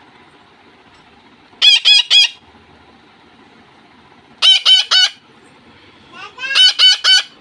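Pet parrot screeching: three bursts of loud, shrill calls, each three or four quick notes, the first about a second and a half in, the next about halfway through and the last near the end.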